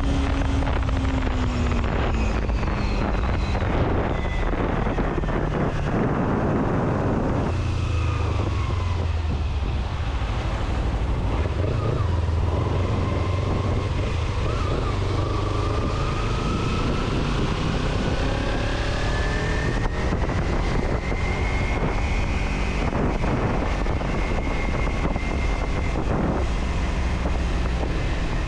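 A road vehicle on the move: a steady low engine rumble, with engine tones that rise and fall as it speeds up and slows, over wind and road noise. The high hiss is heavier for the first seven seconds or so, then thins.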